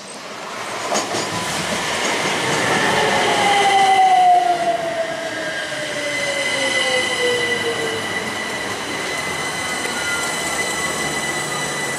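Train running by on the rails, loudest about four seconds in, with a whine that falls steadily in pitch and a high, steady wheel squeal through the second half.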